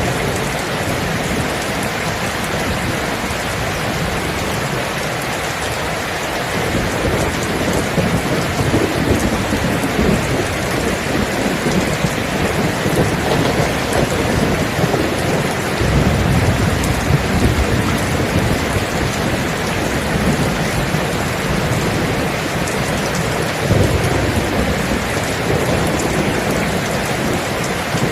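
Steady heavy rain with deep rolling thunder. The rumble swells about a quarter of the way in and again, more strongly, from about the middle on.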